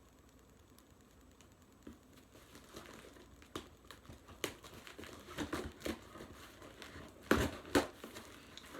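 Cardboard shipping box and its packing being opened by hand: crinkling and rustling with scattered clicks, and two sharp snaps about half a second apart near the end.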